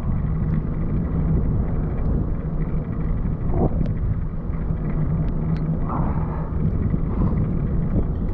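Steady low rumble of wind on the microphone and wet road noise while cycling in the rain, with a few faint scattered ticks.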